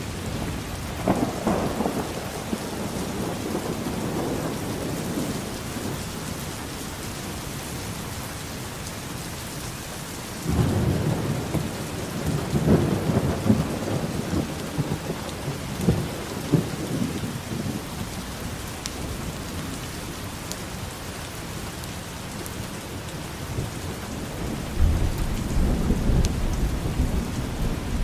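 Steady rain with rolling thunder: low rumbles swell up about a second in, again for several seconds from about ten seconds in, and once more near the end.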